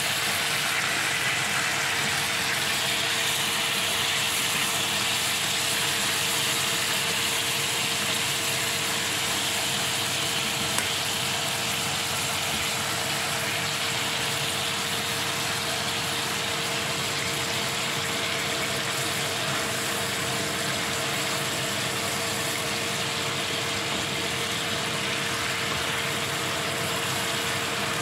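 Chicken pieces sizzling and bubbling in sauce in a frying pan, a steady crackling hiss, with a steady hum underneath.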